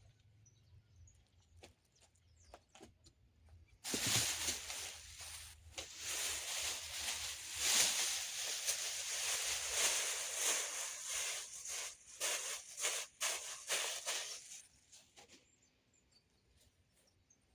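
Packaging rustling and crinkling as a small portable fridge is unpacked from its box. A few small clicks come first, then about ten seconds of loud, crackling handling noise from about four seconds in, which stops about fifteen seconds in.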